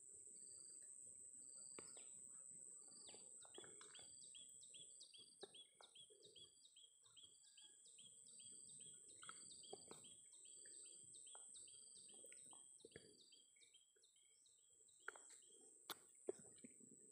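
Faint bird chirping: a quick series of short, falling notes, about three or four a second, sets in a few seconds in and stops near the end, over a steady high-pitched buzz. A few light clicks of handling near the end.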